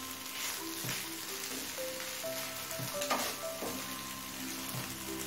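Okra in mustard paste sizzling gently in a frying pan as a wooden spatula stirs it, with a few scraping strokes. Soft background music with held notes plays along.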